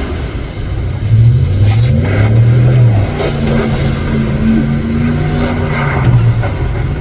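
Ram 1500 pickup truck engine running under throttle, its pitch rising as it revs up about a second in, easing back, then swelling again near the end.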